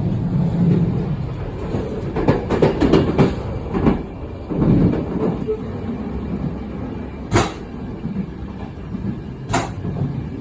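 Passenger train running, a steady low rumble with rattling and clattering from the carriage, busiest from about two to five seconds in. Two sharp knocks about two seconds apart near the end.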